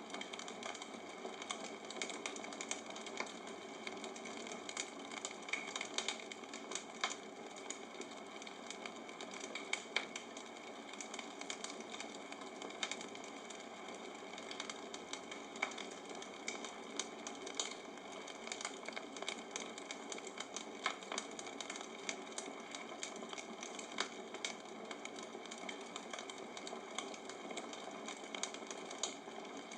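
Bonfire crackling: irregular sharp pops and snaps over a steady hiss.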